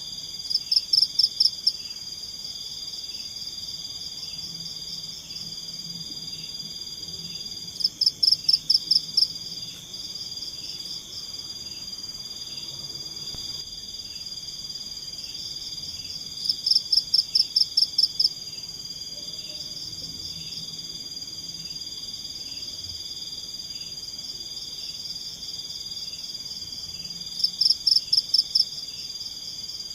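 Forest insect chorus: a steady high-pitched trilling, with a louder call of about eight rapid pulses breaking in four times, roughly every nine seconds.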